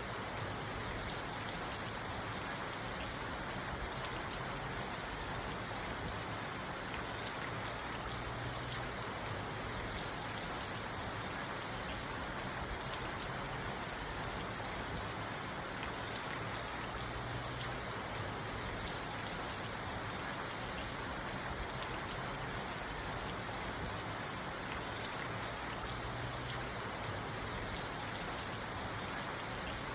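Steady rain falling on a parked car's roof and windows, heard from inside the cabin.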